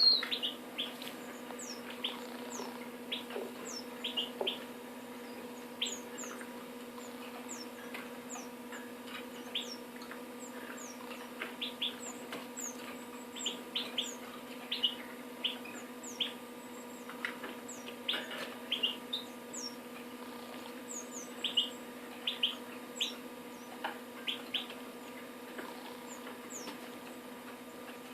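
Small caged songbirds (siskins, a goldfinch and a coal tit) giving short, scattered chirps and quick high downward-sweeping call notes, over a steady low electrical hum.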